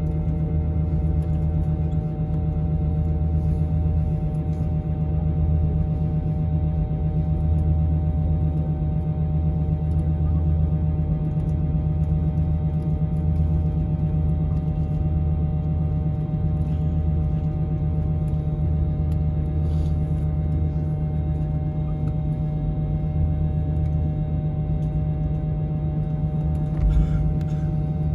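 Airbus A320neo cabin drone from its CFM LEAP-1A engines running steadily at low power, a steady tonal hum over a low rumble. A single brief thump near the end.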